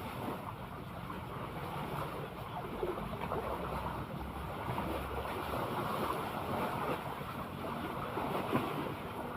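Sea waves washing and wind buffeting the microphone, a steady rough rush with a faint low hum underneath.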